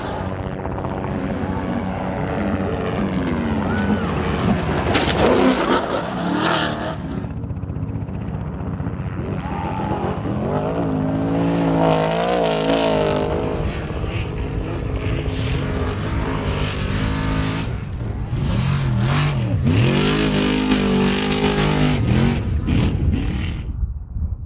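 Off-road race truck engines revving hard, the pitch repeatedly dropping and climbing again as the throttle comes off and back on, mixed with rushing noise and a few sharp knocks.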